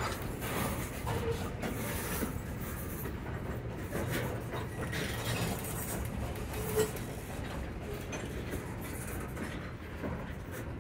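Freight train of covered hopper cars rolling past close by, a steady rumble of wheels on rail with light clicking, and one short louder knock nearly seven seconds in.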